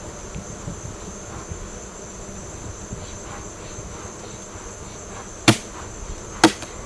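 Steady high insect trill, with two sharp knocks about a second apart near the end.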